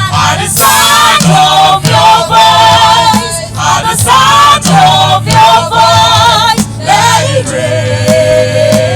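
Gospel worship singing: several voices sing with vibrato over a steady instrumental accompaniment, and the last note is held for a couple of seconds near the end.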